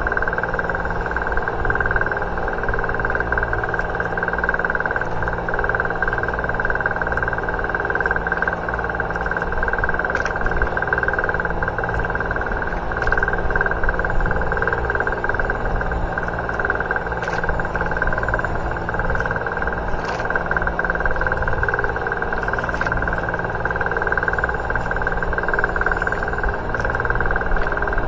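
An engine running steadily, with a constant high whine over a low hum and a few faint clicks scattered through.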